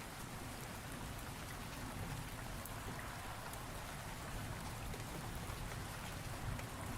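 Steady rainfall with scattered drops pattering on a surface and a low rumble underneath, as thunderstorm ambience.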